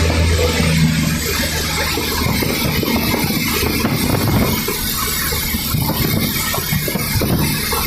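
Cessna 152 light aircraft running: steady engine and airflow noise from its four-cylinder Lycoming engine and propeller, with a low hum in the first second or so.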